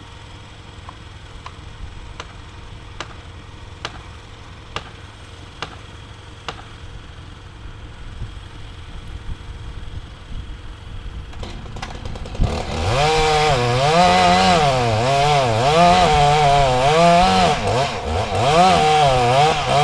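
Chainsaw starting up about twelve seconds in and cutting into an oak trunk, its engine pitch rising and falling as it works under load in the felling cut. Before it, faint knocks come about once a second.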